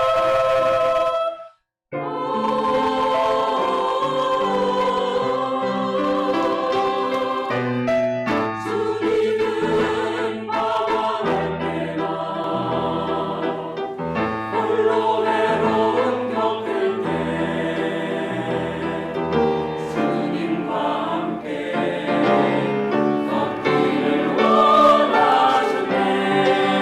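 Church choir singing a sacred anthem with instrumental accompaniment. The sound drops out briefly about a second and a half in, then the singing resumes and runs on.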